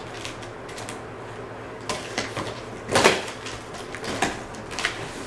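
A cardboard shipping box being handled and opened: a few separate scrapes and knocks, the loudest about three seconds in, with a low steady hum underneath.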